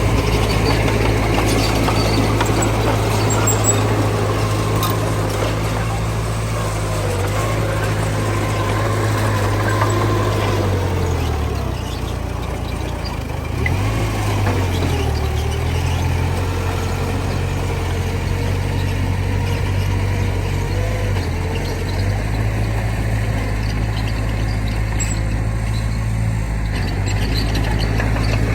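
Heavy diesel engine of earthmoving machinery running steadily, its pitch sagging and recovering a few times near the middle.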